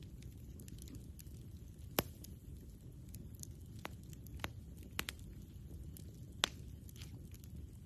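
Campfire crackling, with a handful of sharp pops, the loudest about two seconds in, over a low steady rumble.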